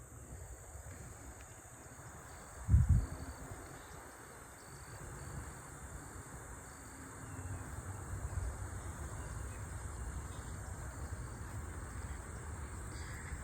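Insects, crickets among them, keeping up a steady high drone, with a low rumble of wind on the microphone. A single low thump about three seconds in is the loudest sound.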